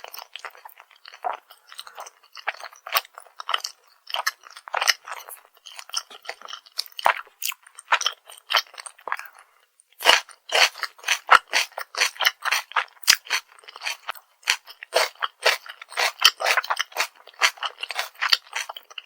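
Close-miked chewing of crunchy fried food, with rapid, irregular crisp crunches as the coating breaks between the teeth. The crunching gets louder and denser about halfway through.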